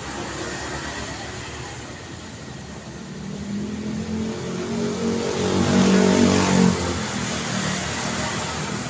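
Street traffic: a motor vehicle's engine approaches, passes close about six seconds in, and fades away over a steady road hum.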